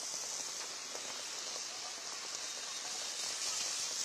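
Heavy rain falling, a steady hiss with scattered drop ticks.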